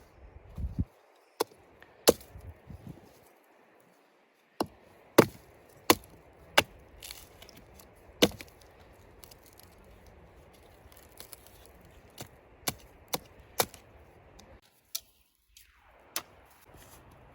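Chopping: about fifteen sharp, separate strikes at an uneven pace, like a blade coming down on a board or block during food preparation.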